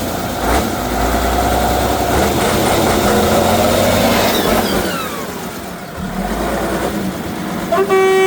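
Heavy off-road truck engine running and revving. A horn starts blaring with one steady tone shortly before the end.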